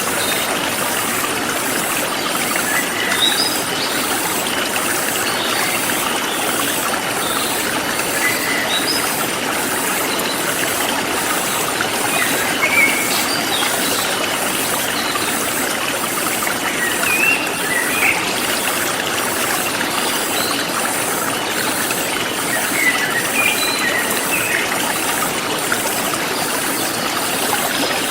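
Forest stream flowing steadily, with scattered short bird chirps and a very high insect chirping that pulses about twice a second.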